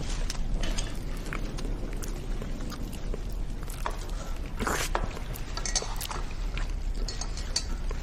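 Scattered small clinks and knocks of tableware, with eating sounds, over a steady low hum. A somewhat louder clatter comes a little past halfway.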